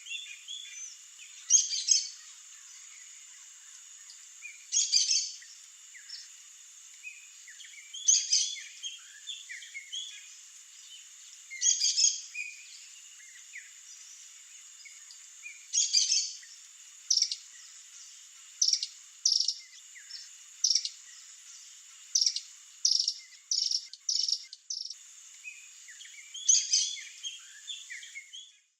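Birds calling: a burst of high chirps every three to four seconds, then a quicker run of short calls in the second half, with smaller chirps between, over a steady high hiss.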